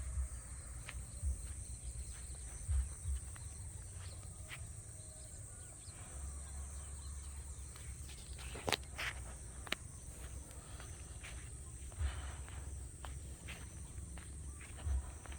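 Insects trilling steadily in a high, even band in the countryside, with a low rumble and scattered clicks, the loudest pair about nine seconds in.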